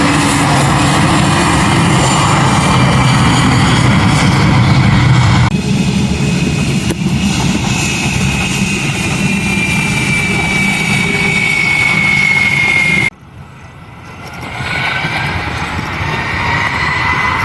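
Aircraft engines running loudly, with a high whine that slowly falls in pitch. The sound changes abruptly about five and a half seconds in, then cuts nearly to nothing about thirteen seconds in before building back up, as between spliced clips.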